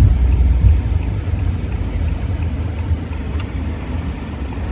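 Steady low rumble of a car driving, engine and tyre noise, heard from inside the cabin.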